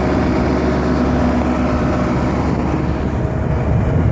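Kubota compact tractor's diesel engine running steadily while working garden soil.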